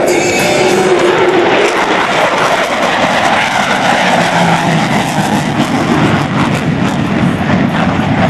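Grumman F-14 Tomcat's twin jet engines giving a loud, steady roar as the fighter flies a double Immelmann.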